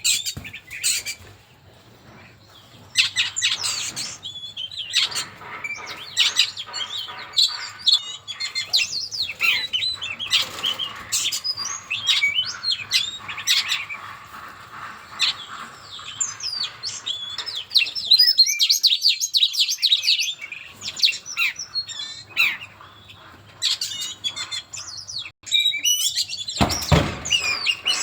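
Songbird singing a fast, varied run of chirps and whistles, with short pauses between phrases, played as a lure call. There is a brief low thump near the end.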